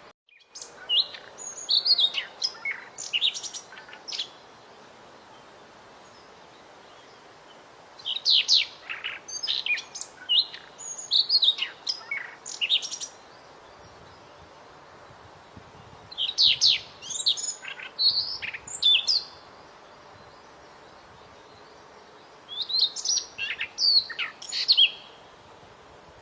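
A small songbird sings four bursts of rapid, high chirping and twittering phrases, with short pauses between them, over a steady faint hiss.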